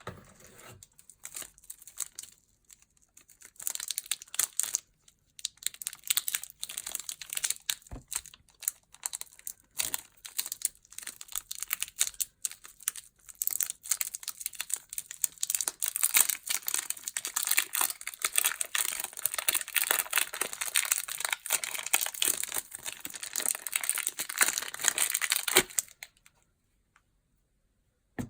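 Soap packaging wrappers crinkling and tearing as soap bars are unpacked by hand: a dense, crackly rustle that stops a couple of seconds before the end.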